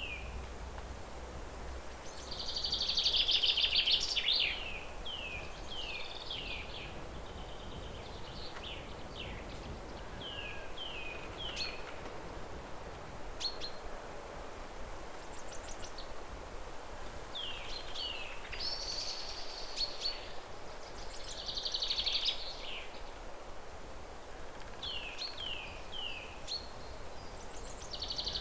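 Songbirds calling: repeated short falling chirps, often in runs of three, broken by louder buzzy trills, the loudest about three seconds in. A steady low background noise runs underneath.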